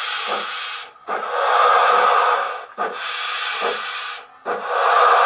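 Model Hogwarts Express steam locomotive's DCC sound decoder playing slow steam exhaust chuffs: long hissing beats, each started by a short knock, about four of them.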